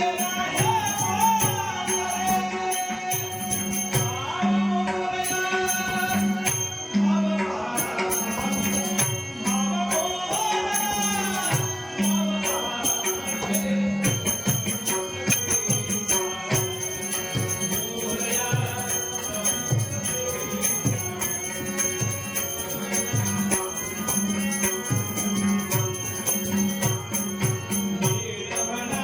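Devotional Ganesh stavan sung by a male voice, mostly in the first half, over a held drone, with a steady beat of low hand-drum strokes and small jingling cymbals.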